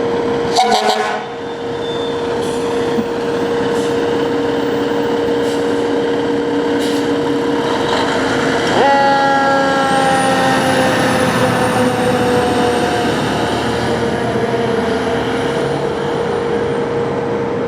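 A 2014 Pierce Arrow XT Type I fire engine running its warning devices on an emergency response. A steady tone sounds throughout, with a short burst of sharp blasts about a second in. About nine seconds in, a siren tone jumps up and then slowly falls in pitch over several seconds.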